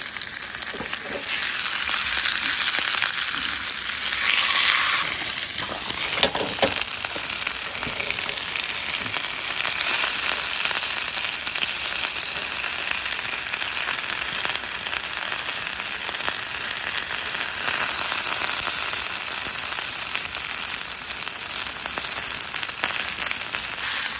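Steak frying in beef tallow in a hot pan: a steady sizzle that swells briefly about four seconds in, with a few pops and clicks soon after.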